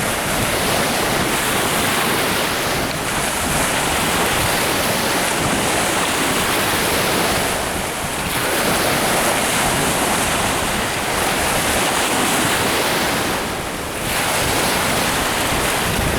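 Strong wind blowing across the microphone over lake waves washing against an eroded shoreline bank, a steady loud rush that eases briefly twice.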